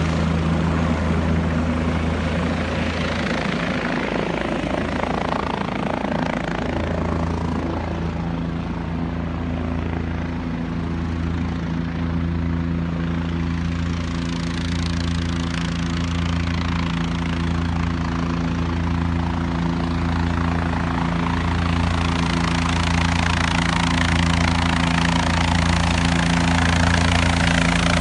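Helicopter flying low, its rotor and turbine running steadily with a throbbing low beat. It grows a little fainter about a third of the way in and louder again toward the end as it works back and forth over the vineyard rows.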